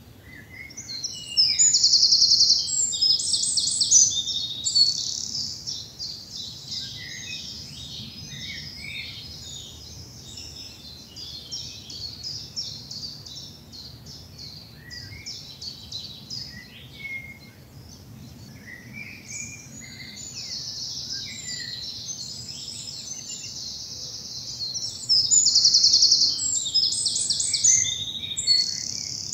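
Several woodland songbirds singing together in a spring dawn chorus, with high, rapid trills and chirps overlapping. It is loudest in bursts of fast trilling near the start and again near the end.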